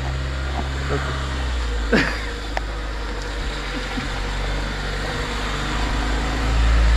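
Car engine running at idle with a steady low hum, growing louder near the end as the car moves off.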